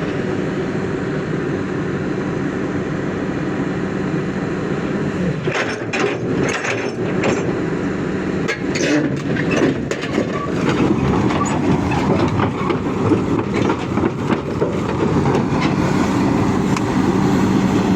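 Excavator's diesel engine running steadily. From about five seconds in, a stream of clanks and clicks from its steel tracks joins it as the machine moves.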